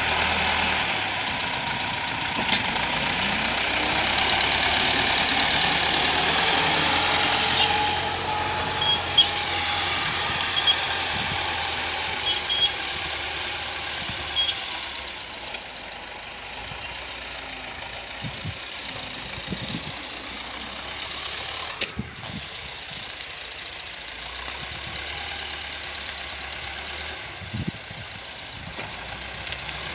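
T-40 wheeled tractor's diesel engine running while skidding logs, louder for the first half and dropping off about halfway through, with scattered knocks and clicks.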